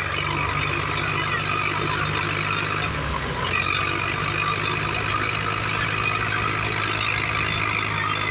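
Tractor diesel engines running steadily under heavy load, straining to pull a stuck trolley that is not coming free.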